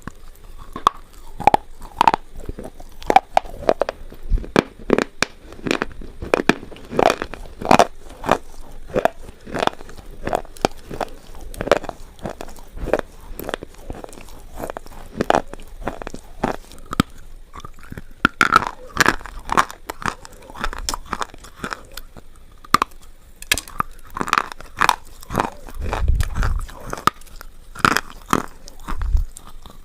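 Slate pencils being bitten and chewed close to the microphone: a steady run of sharp, dry crunches and crackles, several a second.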